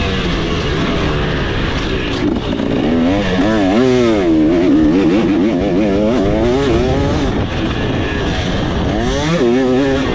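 KTM 300SX single-cylinder two-stroke dirt bike engine under hard riding, its pitch climbing and dropping repeatedly as the throttle is opened and rolled off, with a quick run of rises and falls about three to five seconds in and another climb near the end.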